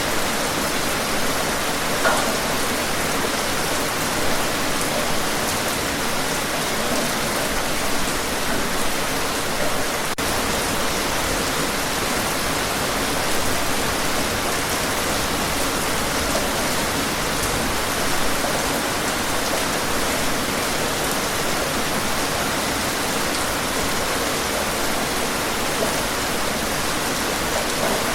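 Steady heavy rain, a dense, even hiss with no clear thunderclaps.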